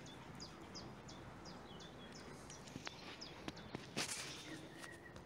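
Faint bird song over a quiet outdoor background: a run of short, high notes, each falling in pitch, repeated about three times a second for two or three seconds. A brief rustle of handling comes about four seconds in.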